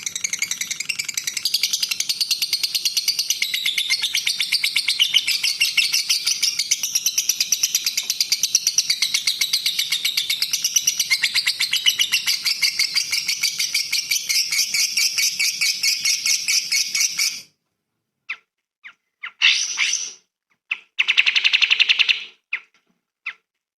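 Songbird singing a fast, unbroken chatter of rapid high notes. It cuts off abruptly about 17 seconds in, followed by three short bursts of song with silent gaps between them.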